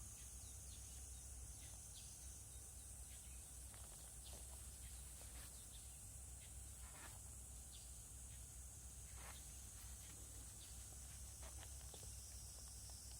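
Near silence: faint outdoor ambience with a steady high-pitched insect drone and a scattered few faint clicks.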